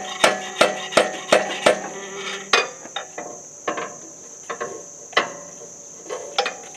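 Hammer striking a metal shaft on a Kubota BX25D tractor to knock it back into alignment, each blow ringing. A quick run of about three taps a second gives way after a couple of seconds to single taps about a second apart. A steady high-pitched buzz runs underneath.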